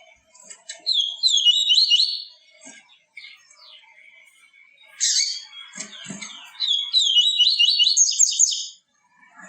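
A papa-capim seedeater singing. Two loud, rapid twittering phrases come about a second in and again from about six and a half seconds, with a sharp call near the middle and scattered softer chirps between.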